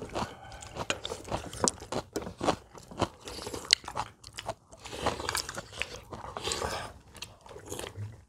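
Several people eating at a table: chewing and mouth sounds, with many short irregular clicks.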